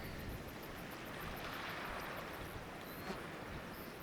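Faint, steady hiss of wind and moving water.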